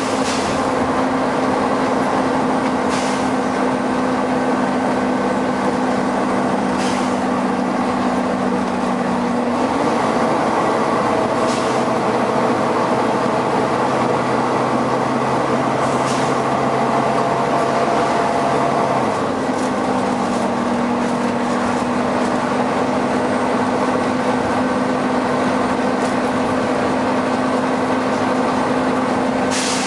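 Volvo B9TL double-decker bus with its very loud cooling fan running, a steady rush over the engine's low hum, and short sharp hisses of air from its air system a few seconds apart. The hum drops to a lower pitch about ten seconds in and goes back up a little before twenty seconds.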